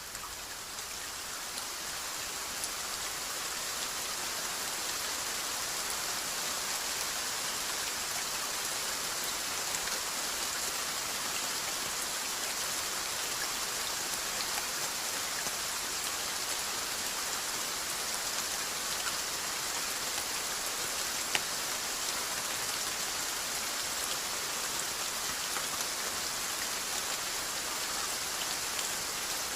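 Steady rainfall: a dense, even hiss of drops on a surface, with scattered individual drop ticks and one sharper tick about two-thirds of the way through. The level dips right at the start and swells back over the first few seconds.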